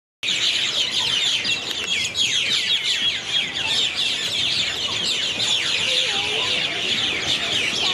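A large flock of birds in one tree chirping loudly all at once: a dense, unbroken chorus of many overlapping short, falling calls.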